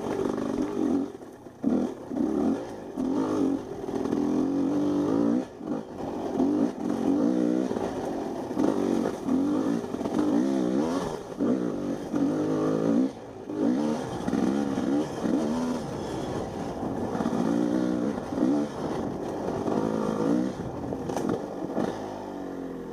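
Two-stroke 250 cc Husqvarna dirt bike engine revving up and falling back again and again as the throttle is worked, with a few brief drops in level when the throttle is shut.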